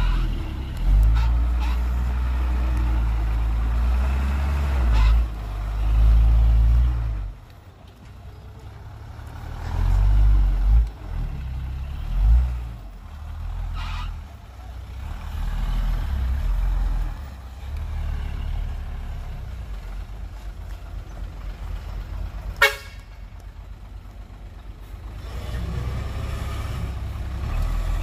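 Heavy diesel engines of dump trucks and a bulldozer at work: a deep rumble that swells loud for the first seven seconds, surges again twice, eases off, then builds once more near the end. A single sharp knock comes about two-thirds of the way through.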